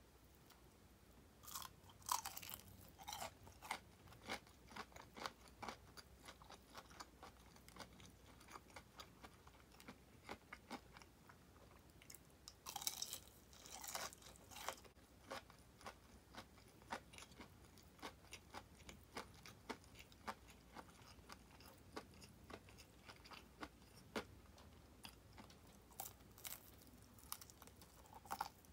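Quiet crunching and chewing of crispy deep-fried chicken wing drumettes (tulip-style). The crackling batter comes in denser bursts about two seconds in, again around the middle, and near the end, with sparser chewing clicks between.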